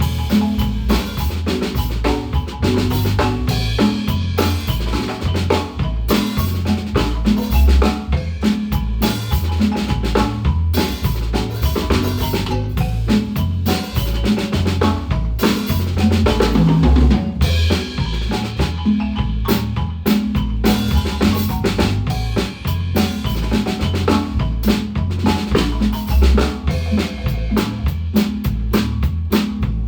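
Guatemalan marimba band playing with a drum kit, snare and kick drum driving a steady beat under the marimba, during a sound check.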